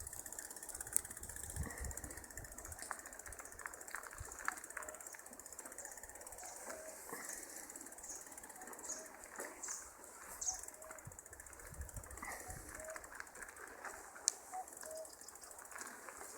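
Faint outdoor ambience of scattered small clicks and rustles with short, repeated bird chirps.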